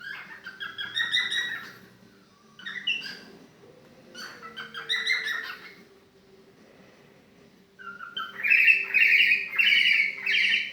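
Pet cockatiel chirping in several short phrases with gaps between them, the loudest and longest run of chirps near the end.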